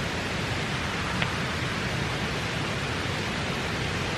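Steady rushing of a creek's flowing water, an even unbroken hiss, with one faint tick about a second in.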